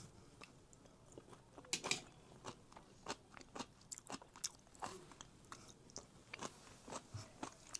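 Close-miked eating: a person chewing and biting food, with many irregular wet clicks and smacks of the mouth and a sharper bite about two seconds in.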